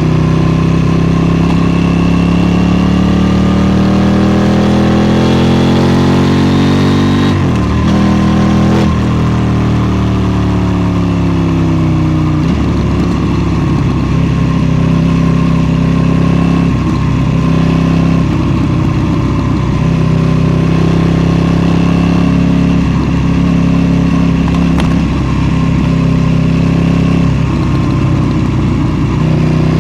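KTM 790 Duke's parallel-twin engine under way: revs rise for about seven seconds, break off briefly at a gear change, then fall away for a few seconds. After that it runs at a steady pitch with short dips as the throttle changes.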